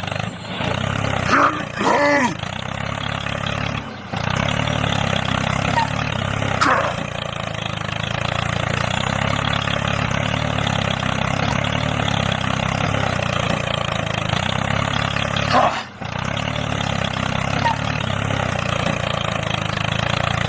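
Small electric motor of a homemade toy tractor running steadily under load, a continuous motor-and-gear drone, with a few brief voice sounds over it.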